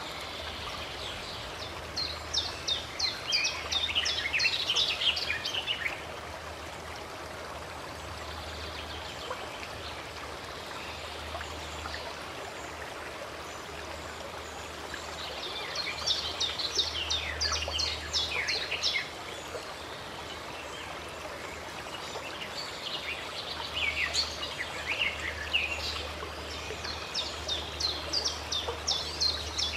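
Running stream rushing steadily, with a songbird singing three bouts of rapid, high, mostly falling notes: one starting about two seconds in, another in the middle, and a longer one near the end.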